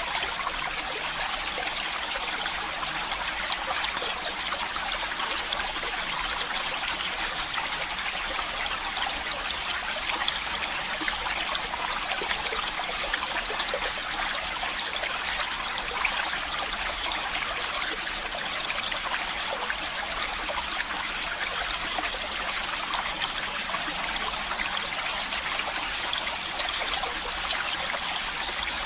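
Running water of a stream: a steady, unbroken trickling rush, bright and hissy, with no pauses or changes.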